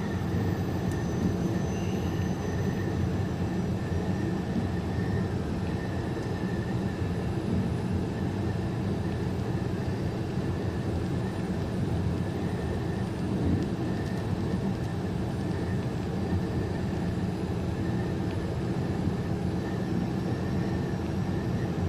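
Steady engine and road drone of a semi truck cruising on the highway, heard from inside its cab, with a faint steady high whine over it.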